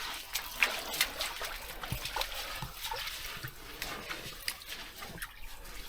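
Water splashing and trickling, with many short sharp clicks and knocks scattered through it.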